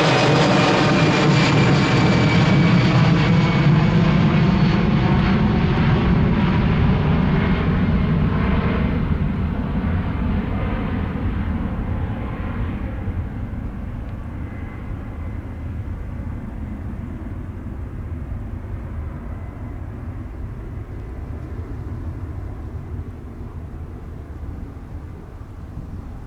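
Boeing 787 Dreamliner jet airliner passing and moving away: its engine tones fall in pitch as it goes, and the sound fades steadily over about twenty seconds.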